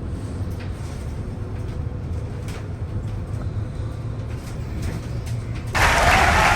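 Steady low rumble of a moving vehicle, with a few faint clicks. A loud rushing noise starts suddenly near the end.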